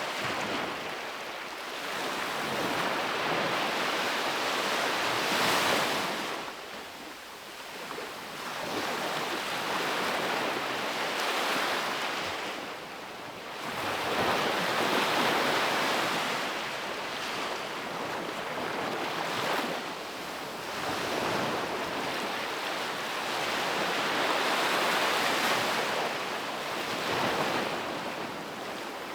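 Sea waves breaking and washing up a beach, the surf swelling and easing in slow surges every several seconds.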